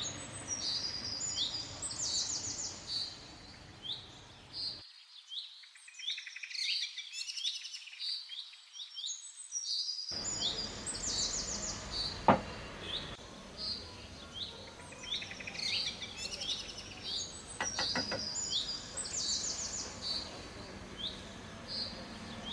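Small birds chirping over and over in short, high notes, some falling in pitch, over a steady background hiss. A sharp knock about twelve seconds in, and a quick run of clicks near eighteen seconds.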